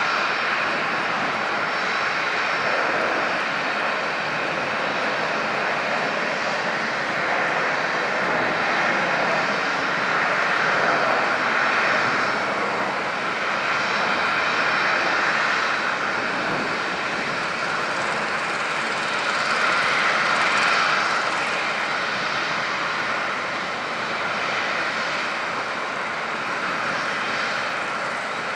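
Four turbofan engines of a Boeing 747-400 freighter running: a continuous jet roar that swells and eases slightly every few seconds.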